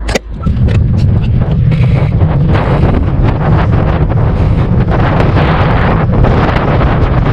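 Heavy wind buffeting the camera microphone: a loud, steady low rumble with hiss, which begins just after a brief dropout at the start.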